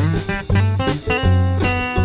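Live band playing an instrumental passage of a song: strummed guitar chords over sustained bass notes, with no singing.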